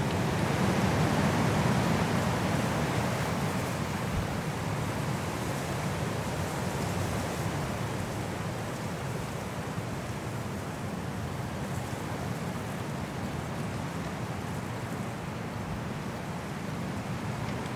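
High snowstorm wind blowing through trees: a steady rushing that swells in a gust over the first few seconds, then eases a little and holds.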